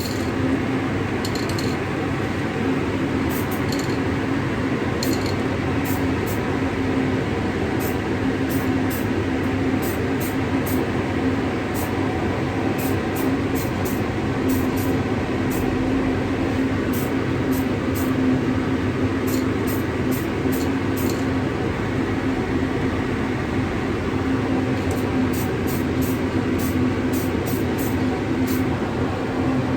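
A machine running steadily with a low hum under a continuous hiss.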